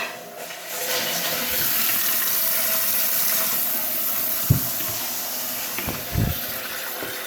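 Newly installed toilet fill valve hissing steadily as water rushes in and refills the tank once the supply is turned on. Two dull thumps come in partway through.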